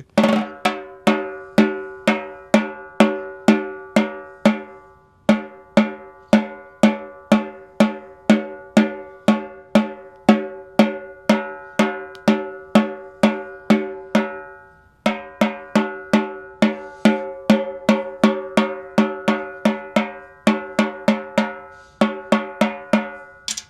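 Ludwig Acrolite aluminum-shell snare drum's top head struck at an even pace, about two hits a second, each hit ringing with a clear pitch, with two short breaks. The head is being checked for tuning: it sounds a little sharp, with the pitch dropping slightly at some spots around the drum and coming back at others.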